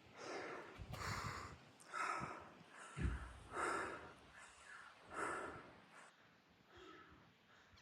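A person breathing hard, a rough breath about once a second, while pedalling a bike uphill.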